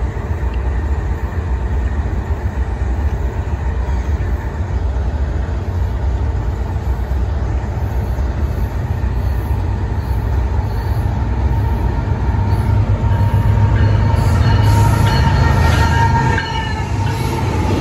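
BNSF diesel freight locomotives rumbling close by, a steady low engine drone that grows louder after about twelve seconds. Near the end a thin high squeal joins it for a few seconds, typical of wheels on rail.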